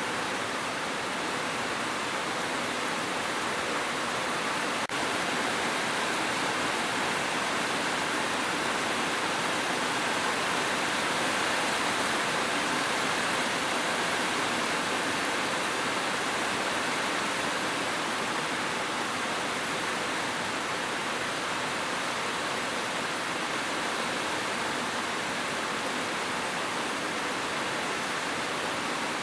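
Steady heavy rain, a continuous even hiss, with one faint brief click about five seconds in.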